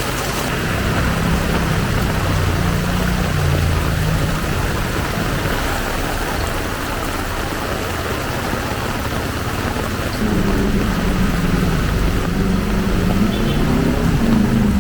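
Heavy rain falling steadily, with the low drone of a motor vehicle's engine passing early on and another coming through from about ten seconds in.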